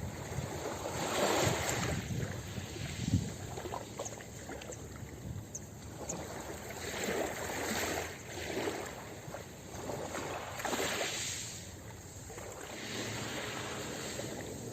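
Ocean waves washing onto a beach, a rush of surf that swells and falls every second or two, with small splashes.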